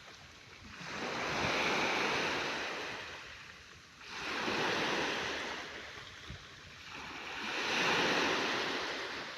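Sea waves breaking and washing up, a rushing noise that swells and fades three times, with each surge building and ebbing over a few seconds.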